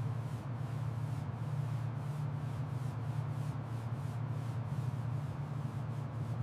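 Steady low hum under an even hiss, unchanging throughout.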